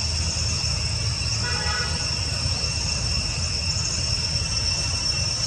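Steady high-pitched drone of insects (crickets or cicadas) over a low rumble, with a brief pitched call about a second and a half in.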